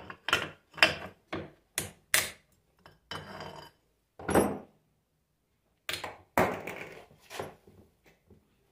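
Alternator parts and hand tools knocking and clattering on a workbench: a run of sharp knocks, a short rasping stretch about three seconds in, a heavier thud past four seconds, then more clatter.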